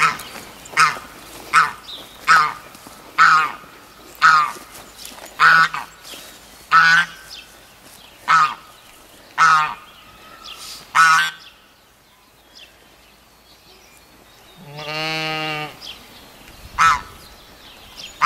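A farm bird honking over and over, short calls about one every three-quarters of a second, which stop about 11 seconds in. After a quiet gap, one long drawn-out animal call comes about 15 seconds in, and one more short honk follows.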